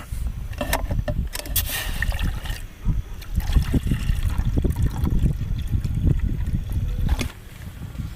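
Strong mountain wind buffeting the microphone in an irregular low rumble that eases about 7 seconds in, with scattered clicks and a short burst of rustling from gear being handled.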